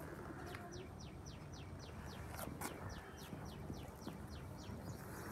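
A small bird chirping faintly in a quick regular series, about five short falling chirps a second. Two sharp clicks come about two and a half seconds in.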